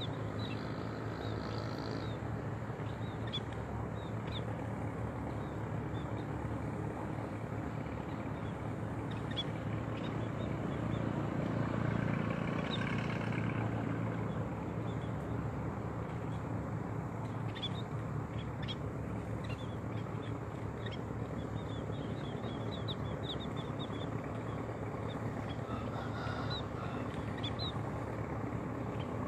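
Open-field background with a steady low hum and scattered short, high chirps of small birds. A low rumble swells and fades about halfway through.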